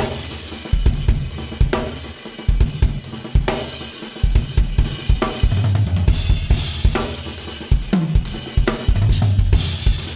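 Drum kit played in a continuous groove of kick, snare and tom strokes under cymbals and hi-hat, the toms ringing out with Evans EC2 drumheads. One tom note bends down in pitch about eight seconds in.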